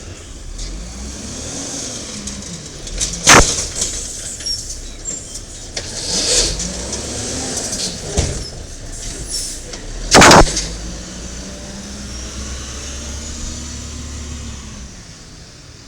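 Diesel engine of a 1995 Peterbilt 310 garbage truck with an automated side-loader arm, revving up and dropping back several times. Two sharp, very loud bangs cut through it, about three seconds in and again about seven seconds later.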